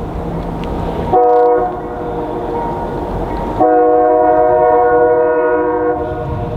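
Locomotive multi-chime air horn sounding a short blast, then a long one, over the rumble of a passing train. Together with the long blast just before, this pattern is the end of the standard long-long-short-long grade-crossing signal.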